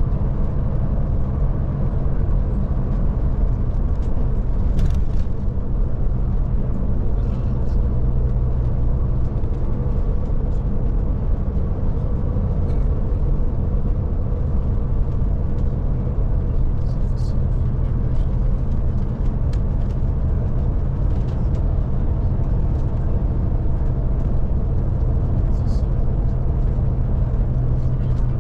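Scania Touring coach cruising at a steady speed, heard from inside the cabin: an even engine drone and road noise that hold steady throughout, with a few faint ticks.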